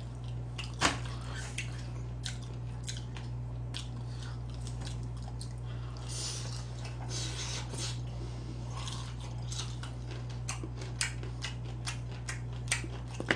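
A person chewing and biting fried chicken close to the microphone, with short crunches and clicks, the sharpest about a second in and more of them near the end, over a steady low hum.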